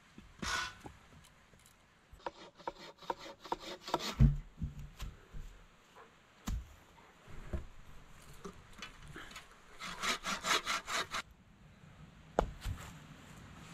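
Wooden frame saw (bucksaw) cutting through a log by hand, in runs of quick back-and-forth strokes. A few dull knocks come between the runs, the loudest a thump about four seconds in.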